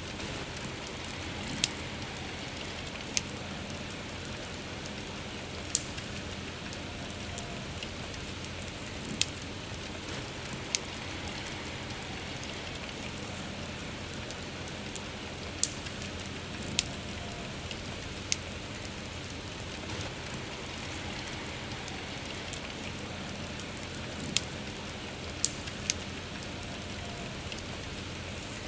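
Steady rain hiss with a wood fire crackling, a sharp pop every couple of seconds at irregular intervals.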